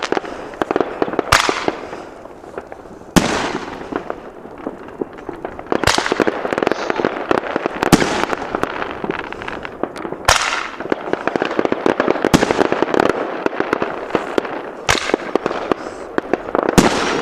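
A 2-inch Roman candle firing a series of shots, each a sharp bang followed by a crackling hiss. About eight shots come every two seconds or so, with crackling and hissing between them.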